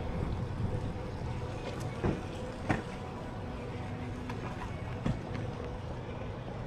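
Steady low rumble of city street noise heard while riding, with three sharp knocks: one about two seconds in, one a little before three seconds, and one about five seconds in.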